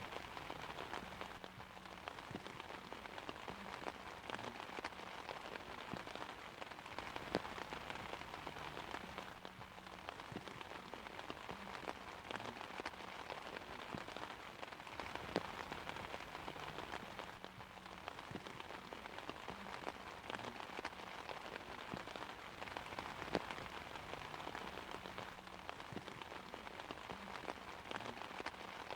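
Steady rain pattering on an umbrella, with no thunder, and a louder single drop ticking now and then every few seconds.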